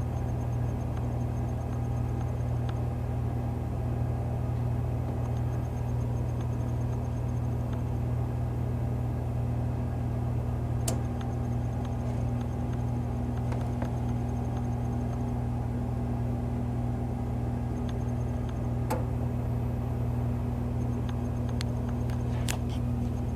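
A steady low machine hum, with a few faint sharp clicks about halfway through and again near the end.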